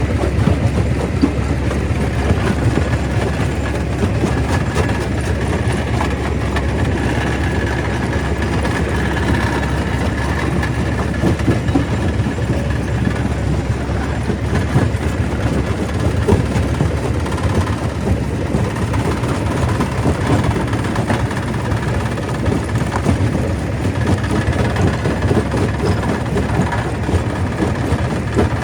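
Stone crusher running while crushing rock: a steady, heavy mechanical rumble with a dense, continuous clatter of stone knocking through it.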